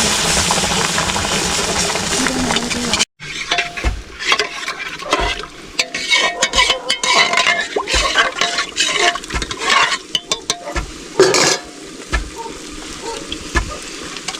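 Food sizzling steadily in a hot pan, breaking off suddenly about three seconds in; then a spoon stirring and clinking against the cooking pot, with a quieter sizzle beneath.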